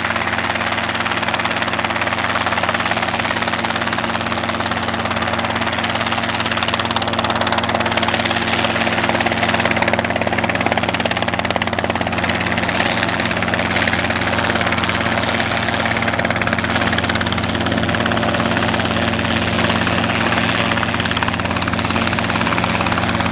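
Robinson R22 helicopter hovering close by: the steady drone of its four-cylinder piston engine and main rotor, over a dense rushing hiss.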